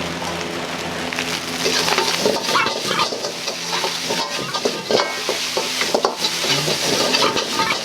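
A metal ladle stirring, scraping and knocking in a wok while food sizzles in hot oil. A steady hum runs underneath, and the clatter starts about two seconds in.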